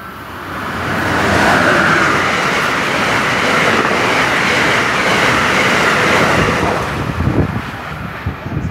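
Amtrak passenger train of Amfleet coaches running past a station platform without stopping: a rush of wheel and rail noise that builds quickly and holds for several seconds, then eases off near the end with a few clattering knocks from the wheels.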